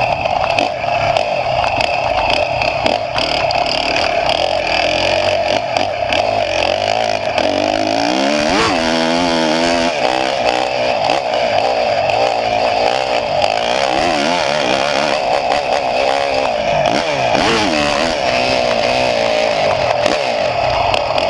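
A small engine running steadily, its pitch rising and falling for a couple of seconds near the middle and again later on.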